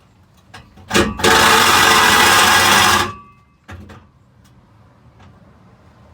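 A power tool cuts into the old exhaust pipe in one loud burst lasting about two seconds, then stops suddenly. Faint knocks come before and after it.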